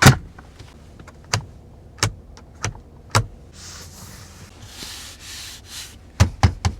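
Cadillac Escalade door and interior mechanisms clicking: a sharp clunk, then single clicks about every half second, a soft hiss for a couple of seconds, and a quick run of clicks near the end.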